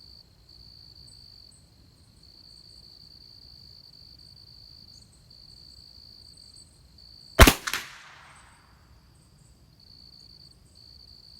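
A single .22LR rifle shot from a Christensen Arms Ranger, sharp and loud, about two-thirds of the way in, with a short echo trailing off after it. Crickets chirr steadily in the background.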